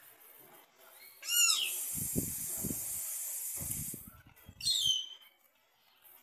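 A bird calling: a quick run of sweeping notes about a second in and a second falling run near five seconds. A steady high hiss fills the gap between them, and low irregular rumbles of wind on the microphone come and go in the middle.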